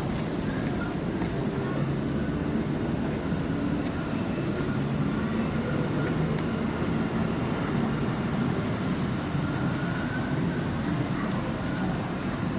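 Steady low rumble of running engines, with faint voices in the background.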